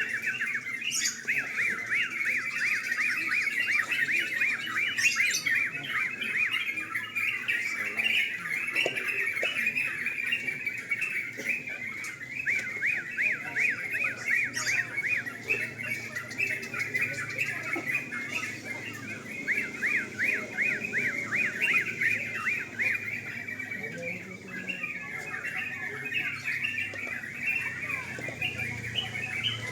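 Several yellow-vented bulbuls (trucukan) singing at once, a dense, unbroken run of quick, bubbling chirps that overlap one another.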